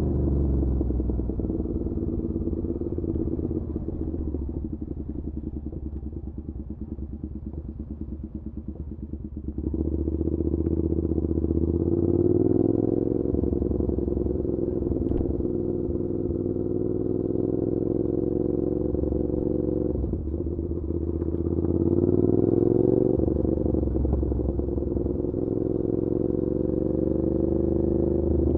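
Suzuki SV650's V-twin through an SC Project exhaust, revs falling at the start and then running low and quieter for several seconds. About ten seconds in the throttle opens and it pulls away with the revs climbing, then cruises steadily, with a brief drop in revs near twenty seconds before it picks up again.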